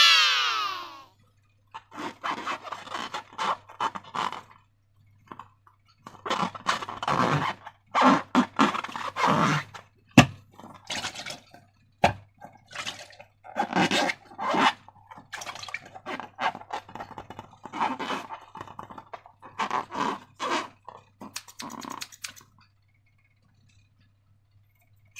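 A balloon's rubber neck squeals briefly, falling in pitch, then slime is squished and scraped by hand, giving irregular wet squelches and crackles with a couple of sharp clicks. A faint steady low hum runs underneath.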